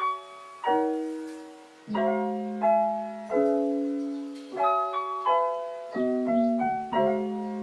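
Background music: a solo piano playing slow notes and chords, each struck about once a second and left to ring and fade.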